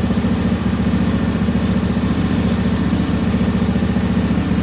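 Lawn tractor's small engine running steadily, with an even, rapid firing beat.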